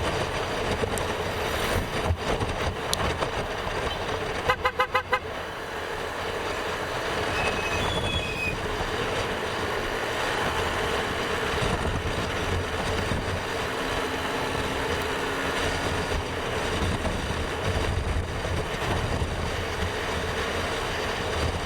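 Steady engine, tyre and wind noise of a motorcycle ride on the road, broken about four and a half seconds in by a horn tooted five times in quick succession.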